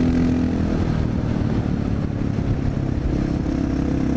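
Honda XR650L's single-cylinder engine running under way on a motorcycle ride. The engine note drops about half a second in and picks up again after about three seconds.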